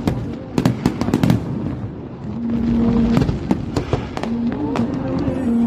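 Aerial fireworks bursting: a quick run of sharp bangs and crackles in the first second and a half, a heavier rumbling burst about two and a half seconds in, then more scattered cracks.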